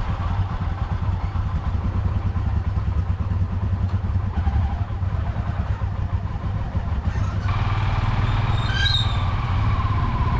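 Royal Enfield motorcycle engines idling with a fast low thumping. About seven seconds in the sound grows fuller and a higher steady drone joins it.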